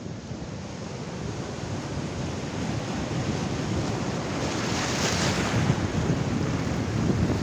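Ocean surf washing onto the shore, with wind buffeting the microphone; a wave's wash swells to its loudest about five seconds in.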